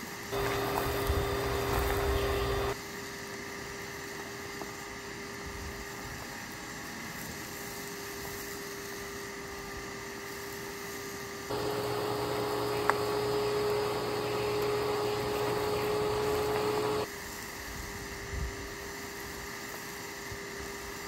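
Vacuum motor running steadily on the lawn, a constant humming tone over airflow noise. Twice it grows louder for a few seconds with a rushing hiss, near the start and again from about the middle, as it sucks up grit and sand.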